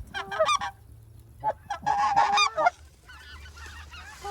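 Specklebelly (white-fronted goose) calls: quick high yelping notes that rise and break, in a short burst near the start and a longer run about a second and a half in.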